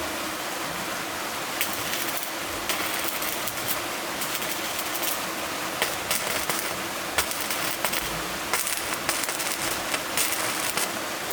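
Steady rush of flowing water, with irregular sharp clicks and knocks scattered throughout.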